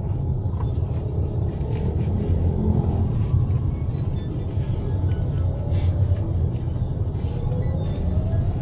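Steady low road rumble of a car, heard from inside the moving car, with music playing over it.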